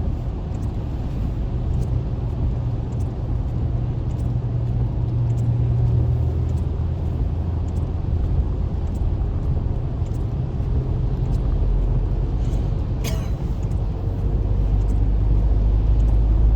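Steady road and engine rumble heard from inside a car driving on a wet highway, with a short sharp tick about thirteen seconds in.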